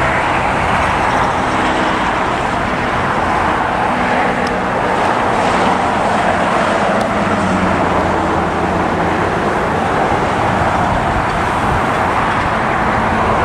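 Boeing 777 jet engines at takeoff thrust during the takeoff roll: a loud, steady roar.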